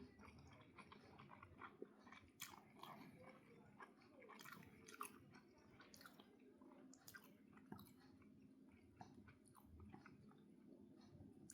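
Faint mouth sounds of someone chewing and eating, with scattered small clicks.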